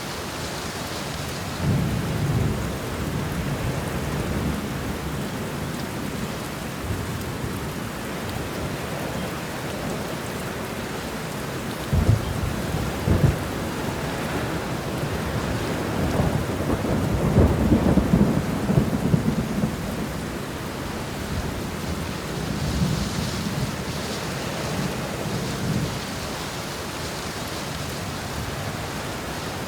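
Steady heavy rain with thunder: a low rumble about two seconds in, two sharp cracks about twelve and thirteen seconds in, then a longer rolling rumble swelling and fading over several seconds.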